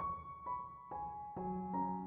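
Background piano music, starting suddenly at the top, with slow notes entering one after another and ringing on.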